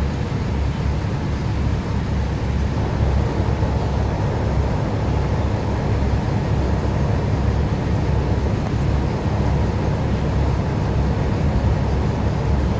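Heavy-equipment engine running steadily, a continuous low rumble with no change in speed.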